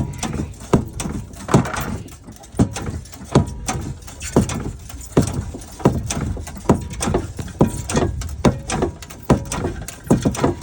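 Hand-squeezed exhaust pipe cutter wrapped around a steel exhaust tailpipe, clicking about once a second as its handles are squeezed again and again to cut through the pipe.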